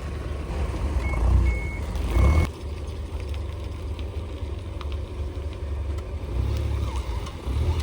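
Combine harvester's engine running with a low rumble while it backs up, its reverse alarm giving three short high beeps in the first couple of seconds; the engine then carries on more quietly.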